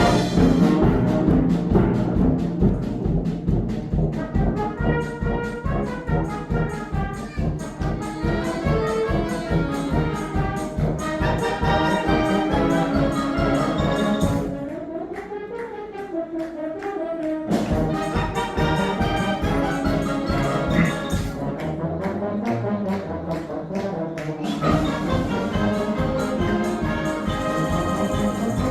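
Wind band playing, brass carrying the melody over a steady beat. About halfway through, the beat drops out for a few seconds, then comes back in.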